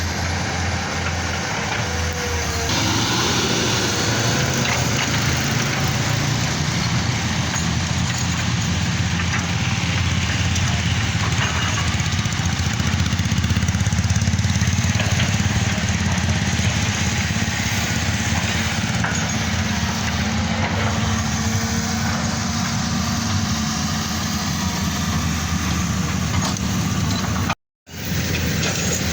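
Vehicle engine running steadily with a low rumble, cut off abruptly for a moment near the end.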